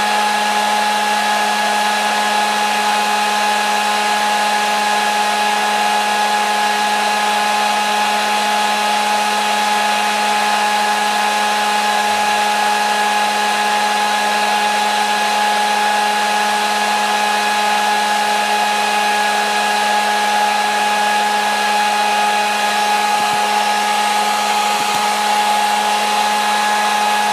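Hair dryer running continuously at a steady speed: a constant blowing rush with a low motor hum and a steady high whine, unchanging throughout, played as sleep sound for a baby.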